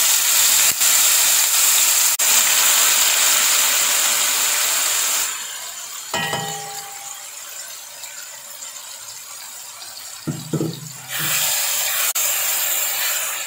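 Freshly blended green chilli paste (sambal hijau) sizzling as it fries in hot oil in a wok, with now and then a click of the spatula against the pan. The sizzle drops a good deal quieter about five seconds in and grows loud again near the end.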